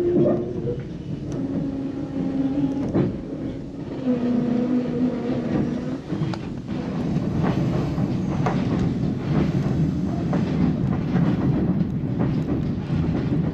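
White Pass & Yukon Route train rolling on its narrow-gauge track: a steady rumble with wheels clicking over the rail joints. A couple of brief held tones rise above it in the first few seconds.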